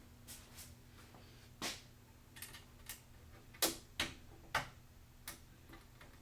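An irregular run of small sharp clicks and taps, about ten in all, the loudest three coming close together a little past the middle, over a steady low hum.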